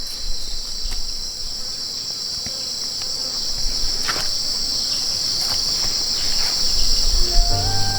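Steady, high-pitched chorus of insects chirring, with a few faint knocks. Background music with held notes comes in about half a second before the end.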